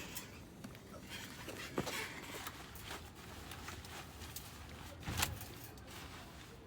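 Scattered knocks and clunks of a motorcycle being handled and loaded into a vehicle, the loudest thump about five seconds in.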